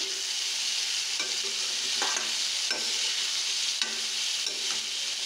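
Black chickpeas frying in oil in a kadhai, a steady sizzle, while a slotted metal spatula stirs and scrapes them around the pan with a few brief strokes.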